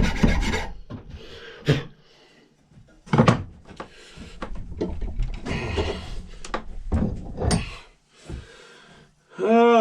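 A file rasping on the steel axe head stops just after the start. Then come a few scattered knocks and scrapes, like a bench vise and metal tools being handled at a workbench.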